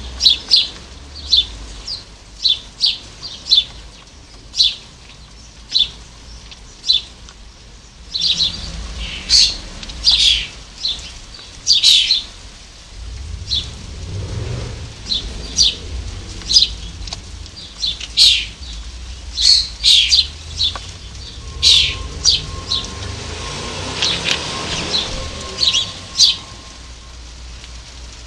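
Small garden birds calling at a feeder: a steady run of short, sharp chirps, dozens in all. Through the middle, a low rumbling noise sits beneath the calls.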